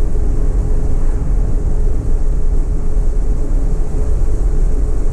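Steady low road and engine rumble inside the cabin of a moving Cadillac Escalade, with a faint steady hum above it.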